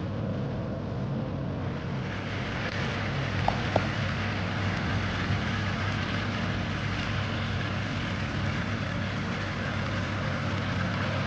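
Chicken thighs in a honey-ginger marinade sizzling and bubbling in a hot pan, the sizzle growing stronger about two seconds in, over a steady low hum. Two small pops come a few seconds in.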